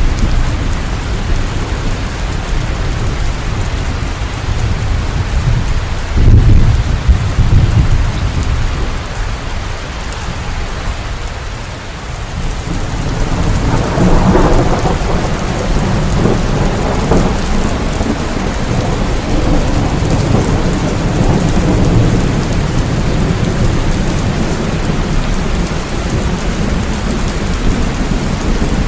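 Steady rain falling in a thunderstorm, with a loud, low thunderclap about six seconds in and a long rolling rumble of thunder from about halfway through.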